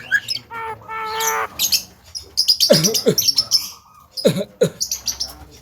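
Javan myna calling in a varied run: a nasal, voice-like note about a second in, high clicks and chatter, then two pairs of swooping whistles that dip and rise again, one pair about halfway and one near the end.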